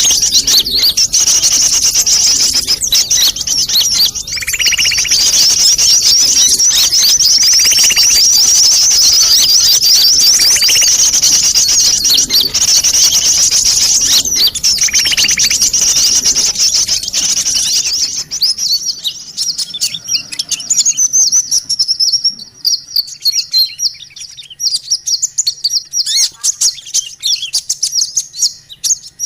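Sunbirds (kolibri) chirping in a bird-luring recording: a dense, high-pitched run of rapid chirps, with a lower buzzy call repeating about every three seconds. After about 18 seconds the chorus thins to separate chirps.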